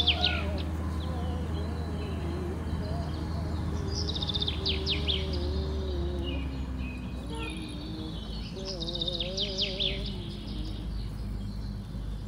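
Small birds singing in three short bursts of rapid high chirps, over a steady low rumble.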